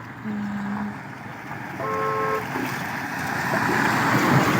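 Two short vehicle horn toots, the first low, the second higher and multi-toned, about two seconds in. A rushing noise then swells toward the end.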